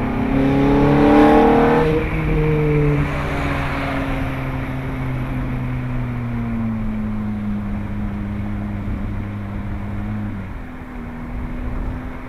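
Ferrari F430's 4.3-litre V8 accelerating hard for about two seconds, its note rising, then shifting up. The engine note then falls slowly as the car eases off, with another gear change near the end.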